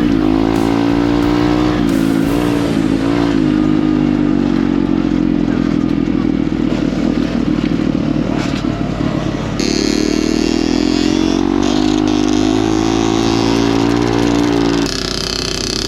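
Small single-cylinder pit bike engine running and revving on the trail, its pitch rising and falling with the throttle. The sound changes abruptly twice, about ten and fifteen seconds in.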